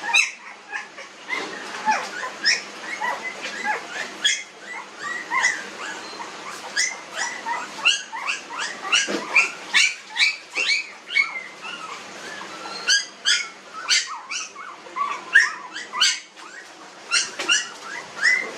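Newborn puppies squealing and whimpering, a rapid run of many short, high-pitched squeaks, several overlapping at times.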